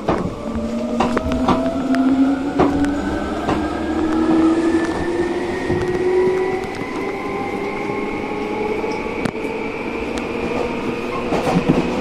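Electric commuter train heard from inside the carriage, pulling away from a station: its motors give a whine that climbs steadily in pitch as it gathers speed, with sharp wheel clicks over rail joints in the first few seconds and again near the end.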